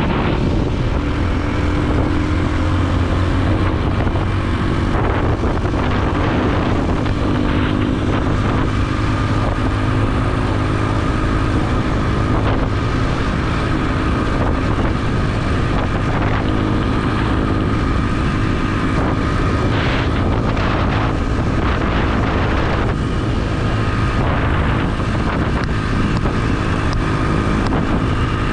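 Motorbike engine running steadily at riding speed, with wind rushing over a helmet-mounted microphone.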